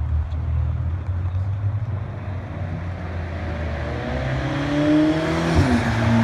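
Car engine with a low rumble, then accelerating with its pitch rising for about two seconds. The pitch drops sharply about five and a half seconds in, as at a gear change, then holds steady.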